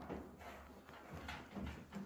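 Faint, irregular light knocks and clicks, a few each second, like hard parts or tools being handled.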